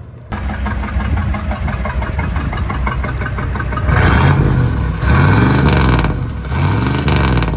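Ford 7.3 IDI turbo diesel V8 running with a fast, even diesel clatter, then revved up and back down about three times from about halfway in.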